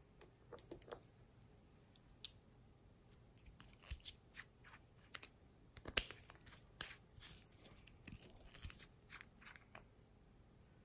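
Slime being worked by hand, giving off irregular small clicks and crackles, the loudest about six seconds in.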